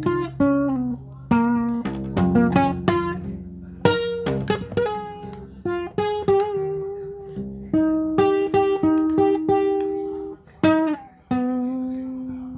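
Solo guitar music: single plucked notes and chords, each ringing and fading, in an unhurried melody. Near the end it settles on a held low note that breaks off.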